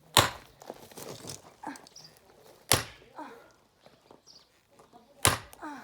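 Three heavy blows striking a log to split firewood, about two and a half seconds apart, each a sharp crack.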